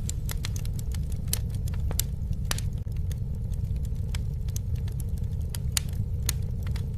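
Campfire crackling: scattered, irregular sharp pops and snaps over a steady low rumble.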